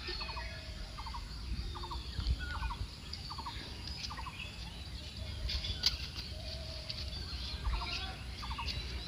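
Birds calling: a short trilled note repeated over and over, with higher chirps mixed in, over a low rumble. A few faint clicks.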